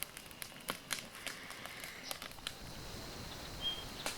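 Scattered light clicks and rustles for the first couple of seconds, then quiet outdoor ambience with one short, high chirp near the end.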